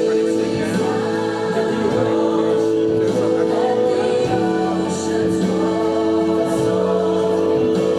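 Gospel choir singing with instrumental accompaniment, held chords over a moving bass line.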